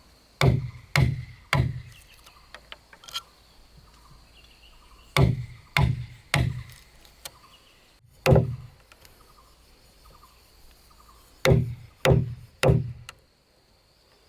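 Heavy blows striking wood, mostly in sets of three about half a second apart, with a single blow in the middle and a few lighter taps between.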